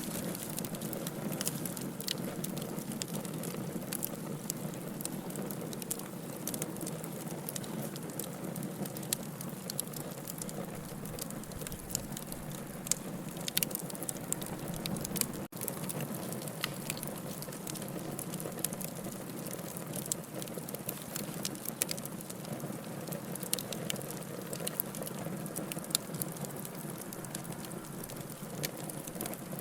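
Wood fire in a fireplace crackling, with a steady low rush of flame and many small sharp pops and snaps scattered through it. The sound breaks off for an instant about halfway through.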